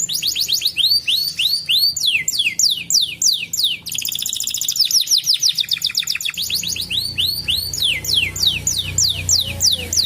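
Domestic canary singing: runs of high repeated notes that each sweep down in pitch, broken in the middle by a fast, rapid-fire trill.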